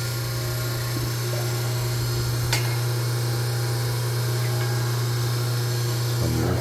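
Electric grinder motor running steadily with an even, unbroken hum, grinding soybeans for tofu. One sharp click about two and a half seconds in.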